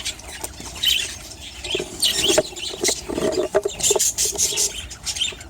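Budgerigars chirping and chattering in many short, high chirps.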